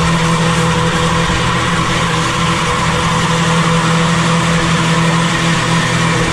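Twin-turbo TDI diesel engine held at steady high revs during a burnout, with a constant rush of noise over it; the pitch neither rises nor falls.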